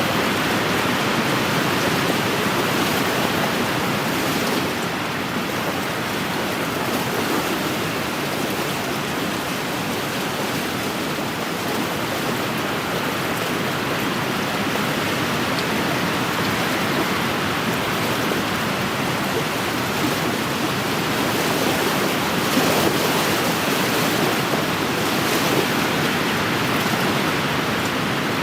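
Wind-driven waves washing steadily against a lakeshore, with the wind, swelling slightly now and then.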